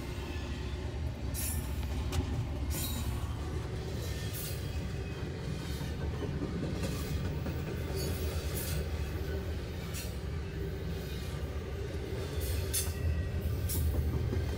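BNSF double-stack intermodal freight train rolling past: a steady low rumble of the well cars, with short sharp squeals and clicks from the wheels coming irregularly, about once a second.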